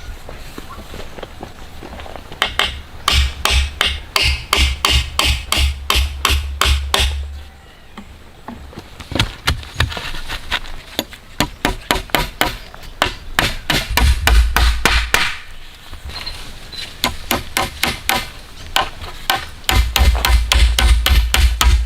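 Hammering in several runs of quick, even blows, about three to four a second, with short pauses between runs and a heavy low thud under the loudest runs.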